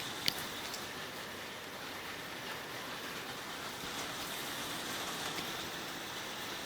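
Passing rain shower falling steadily as an even hiss, with one sharp tick near the start.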